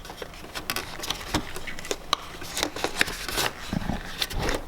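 Rubber dust cap on the back of a motorcycle headlight being worked off by hand: irregular rubbing and scraping with many small clicks.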